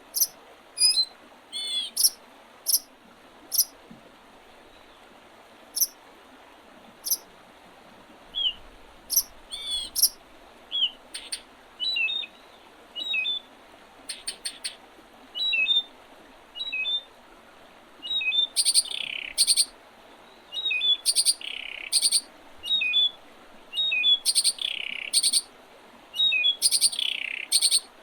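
Songbirds singing and calling in spring: scattered short high chirps and call notes, then, from about two-thirds of the way in, a louder song phrase ending in a falling trill, repeated every two or three seconds.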